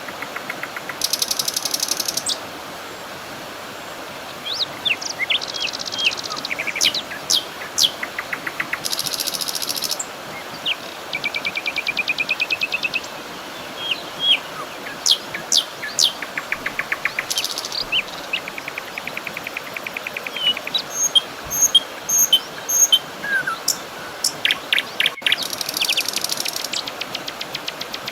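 Several songbirds singing: a busy mix of short chirps, rapid buzzy trills and whistled notes from different birds, over a steady background hiss.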